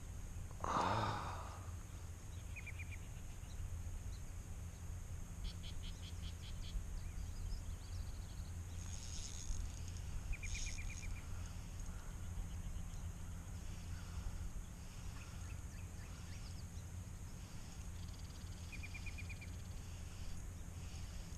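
Steady low rush of river water and wind in the background, with a small bird giving short rapid trills several times. A brief louder noise comes about a second in.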